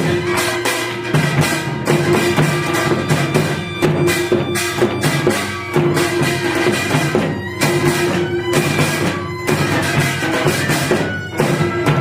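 Korean traditional music for the Jindo drum dance (Jindo bukchum): frequent, sharp strokes on Korean drums over a held melody from reed and bowed string instruments.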